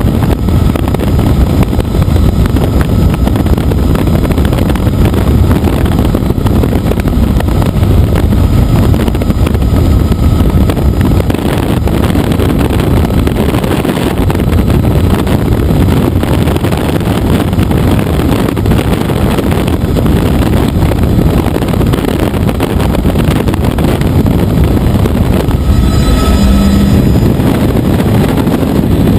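Helicopter in flight: loud, steady rotor and engine noise, with a brief faint tone near the end.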